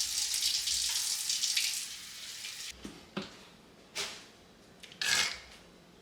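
Tap water running into a sink, shutting off about two seconds in, followed by four short splashes and knocks as something is rinsed.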